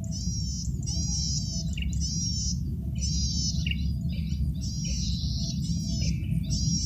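Male cisticola (cici padi) singing: short, fast, buzzy phrases of high notes repeated about once a second, over a steady low rumble.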